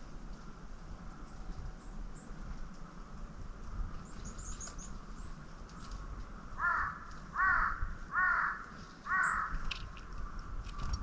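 A crow cawing four times, about a second apart, in the second half, with a few thin high chirps from small birds shortly before.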